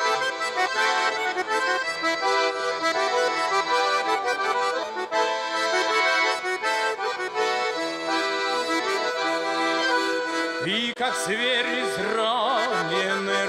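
Accordion playing a folk-style melody with chords between sung verses. About eleven seconds in, a voice with strong vibrato comes in over it.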